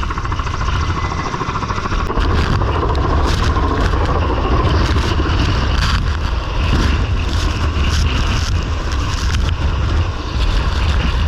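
Loud, steady engine noise with a deep rumble and a rush of wind.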